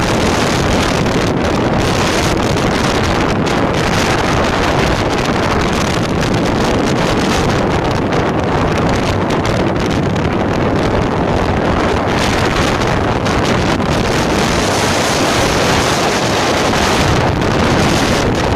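Loud, steady rushing noise of wind buffeting the microphone, with constant rapid flutter.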